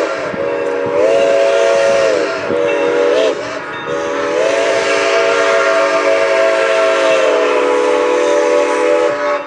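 Santa Fe 2926's multi-chime steam whistle blowing the grade-crossing signal: the end of a long blast, then a second long, a short, and a final long blast held for about five seconds, over a steady hiss.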